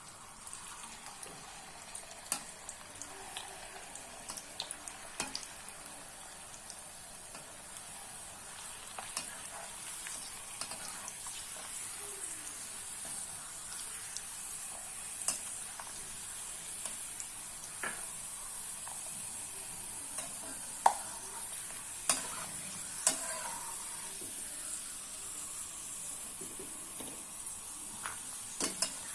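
Cashews, almonds and raisins frying in hot ghee and oil: a steady high sizzle, with sharp clicks now and then, the loudest a little after two-thirds of the way through.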